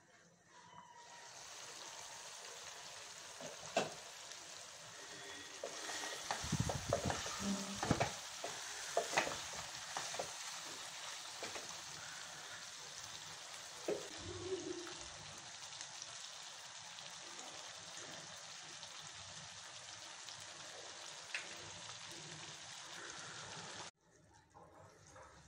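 Chicken pieces sizzling as they fry in a nonstick pan, with a steady hiss. A wooden spatula stirring the chicken scrapes and knocks against the pan, mostly between about 4 and 14 seconds in. The sizzle cuts off suddenly near the end.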